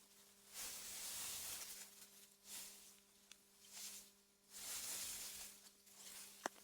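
Soft wind through meadow grass, rising and falling in gusts of airy hiss (AI-generated ambience), over a faint steady low hum. A sharp, brief click sounds near the end.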